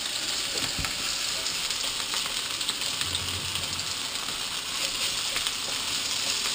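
Potato pieces frying in oil in a cast-iron skillet: a steady sizzle, with a few light scrapes and ticks of a utensil turning them in the pan.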